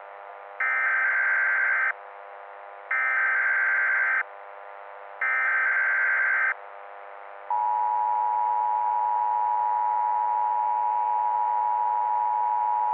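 Emergency Alert System alert tones: three bursts of SAME header data, each a little over a second long and about a second apart, followed by a steady attention tone held for about six seconds, over a constant low hum.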